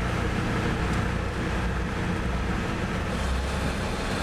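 Vehicle engine running steadily: a low, even rumble with a constant hum.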